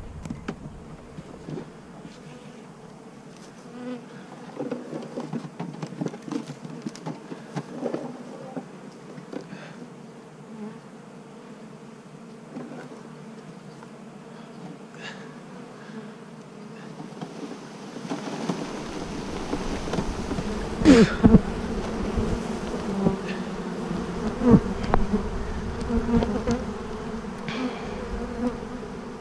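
A honeybee swarm buzzing in a continuous, dense hum that grows louder about two-thirds of the way through as the bees are disturbed, with a few sharp knocks.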